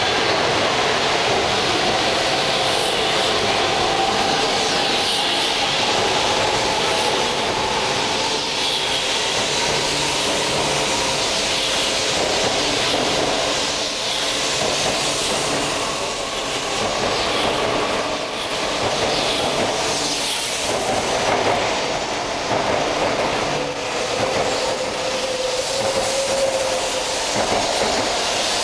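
E4 series double-deck Shinkansen train pulling out and accelerating past, a steady running noise with a whine that rises slowly in pitch. In the second half the wheels click over rail joints as the cars go by faster.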